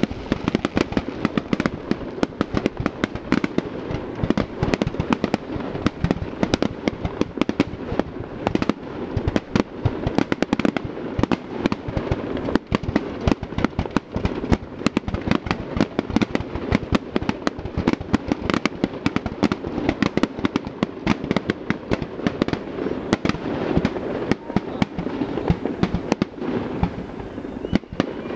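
Aerial firework shells bursting in a rapid, unbroken string of bangs and crackles, several a second.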